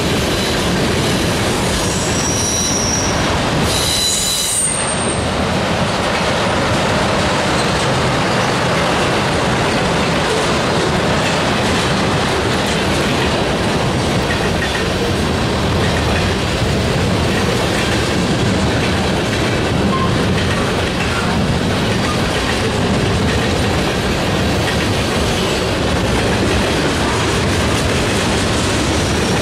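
Freight cars of a Norfolk Southern manifest train rolling past: covered hoppers and tank cars, their steel wheels clattering steadily over the rail joints. A brief high wheel squeal comes a few seconds in.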